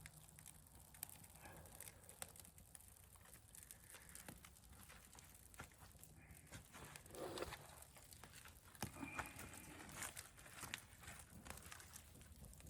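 Faint scattered crackles and snaps from a small birch-bark and kindling fire being started, with a brief louder sound about seven seconds in.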